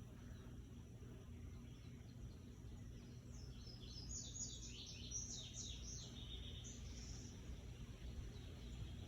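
A bird calling: a rapid run of short, high chirps, each dropping in pitch, lasting about four seconds starting a few seconds in, over a low steady background hum.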